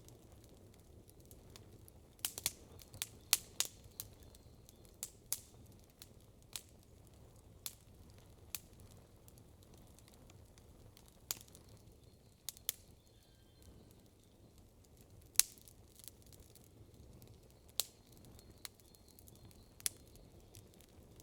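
Wood campfire crackling: irregular sharp pops and snaps over a faint steady low background, with a quick run of them about two to four seconds in and the loudest snap about fifteen seconds in.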